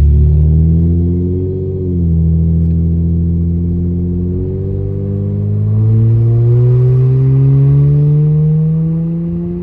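Car engine running with its catalytic converter unbolted, so the exhaust is making a noise. The engine pitch rises briefly about a second in, drops back near two seconds, then climbs steadily as the revs build.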